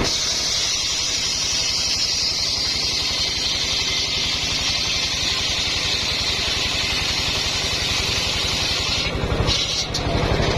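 Homemade engine-driven circular sawmill cutting a coconut-palm log: the engine runs with a steady low pulsing while the blade hisses through the wood. The cutting noise drops away about nine seconds in.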